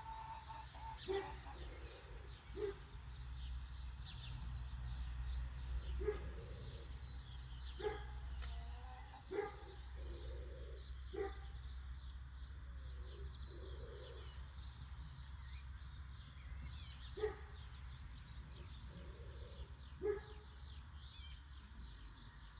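Many small birds chirping and twittering over a steady low rumble, with short, lower calls breaking in every couple of seconds.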